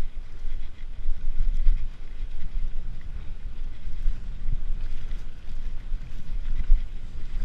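Wind buffeting the microphone over the rumble of a mountain bike rolling along a rough dirt trail, uneven and fluttering.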